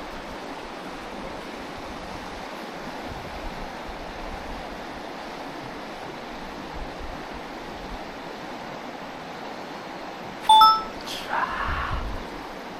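Mountain stream water rushing steadily. About ten seconds in, one sharp metallic clink rings briefly, followed by a short rustle.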